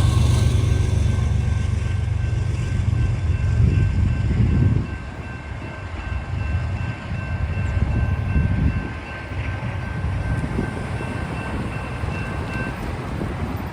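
Freight train passing at a grade crossing: the diesel locomotives' rumble drops away about five seconds in, leaving the rolling noise of the grain cars going by. A faint, steady high tone runs under it and stops near the end.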